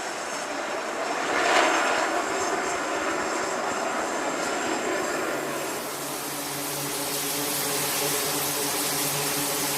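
Jet aircraft engine noise, a steady rush that swells briefly about a second and a half in, with a steady hum joining about halfway through.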